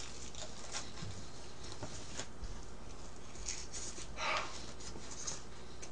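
Chewing sounds of someone eating a slice of thin, cracker-like crepe pizza: soft mouth smacks and clicks, with a short breathy burst just after four seconds in.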